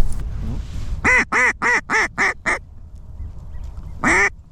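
Duck call blown as hen-mallard quacks: a quick falling run of six quacks, each shorter than the one before, then a longer quack near the end, calling in incoming ducks.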